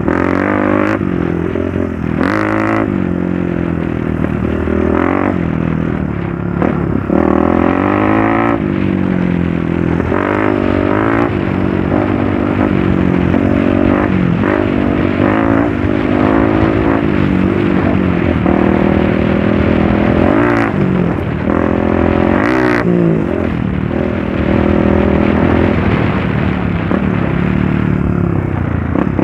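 Trail motorcycle engine running and revving up and down under changing throttle while riding, its pitch rising and falling every few seconds.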